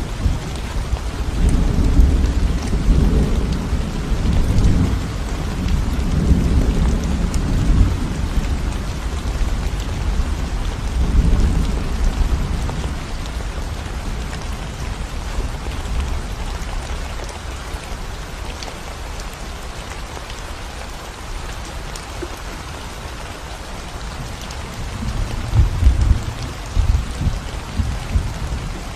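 Steady rain falling on a concrete road, with low rolling rumbles of thunder through the first twelve seconds or so and again a few seconds before the end.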